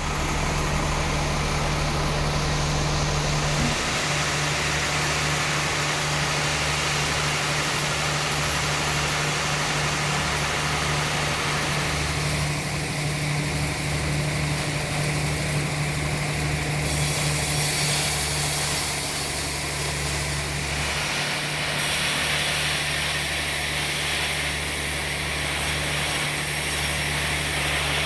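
Sawmill machinery running steadily: a constant low engine or motor hum under a hissing noise that changes character about 4, 12 and 17 seconds in.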